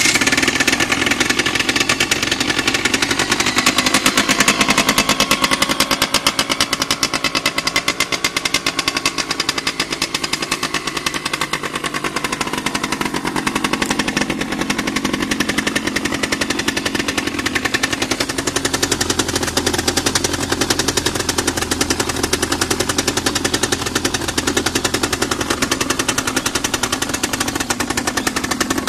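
1997 Aprilia RS 50's 50cc two-stroke single-cylinder engine running on its own just after a cold start, a rapid steady popping idle.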